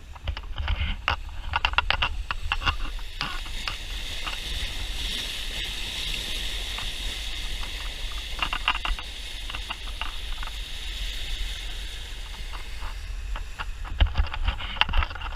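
Sailboat under way offshore: a steady wash of water rushing along the hull over a low wind rumble on the microphone, with bursts of short knocks and slaps near the start and again near the end as the boat bangs through the swell.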